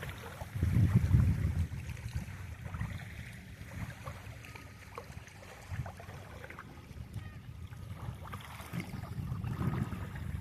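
Lakeshore ambience of small waves on the shore, with a gust of wind rumbling on the microphone about a second in, then a quieter stretch.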